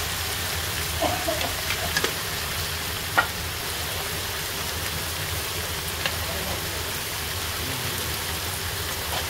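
Diced potatoes and chana dal frying in oil in an iron kadai, a steady sizzle, with a low steady hum underneath. A few sharp clicks stand out, the loudest about three seconds in.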